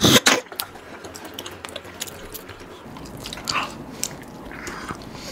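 People biting and chewing crispy KFC Spicy Smoky Crunch fried chicken: a loud crunch right at the start, then scattered small crackles and soft chewing sounds.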